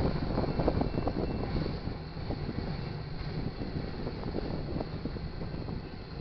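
Empty intermodal flatcars of a freight train rolling past: a steady low rumble of steel wheels on the rails with an irregular rattling clatter of the bare cars, a little louder in the first second or so.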